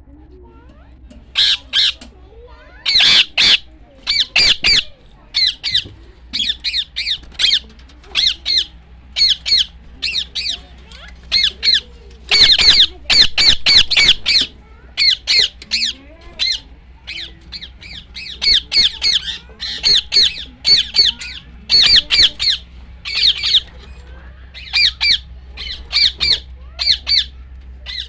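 A bird squawking over and over: short, harsh calls, often in quick runs of two to four, throughout.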